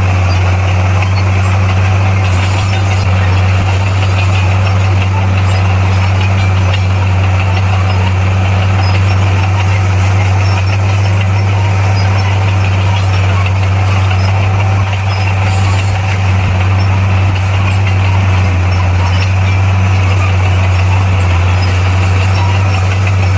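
Bulldozer's diesel engine running steadily under work, a constant low drone with no change in pitch.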